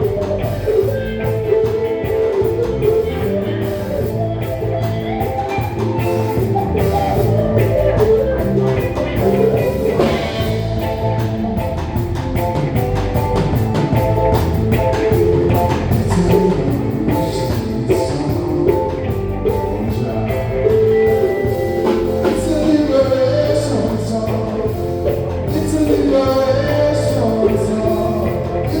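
Live band playing a rock song with guitar and drums, with singing at times.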